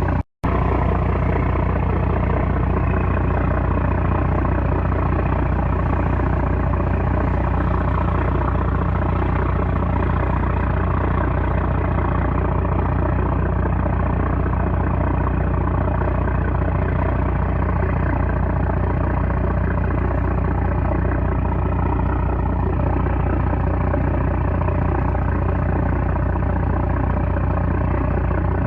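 A 330-horsepower trawler's engine running steadily, a continuous low drone, with a brief gap in the sound just after the start.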